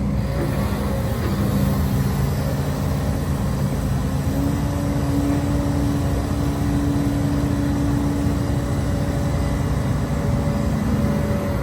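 HIDROMEK HMK230LC excavator's diesel engine running steadily under working load, with a steady higher tone from the hydraulics that comes in about four seconds in and holds until near the end.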